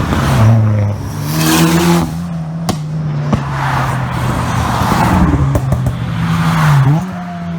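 Modified car engines revving and pulling away. The engine note climbs early on and again near the end, with loud surges of exhaust noise. There are two sharp cracks in the middle.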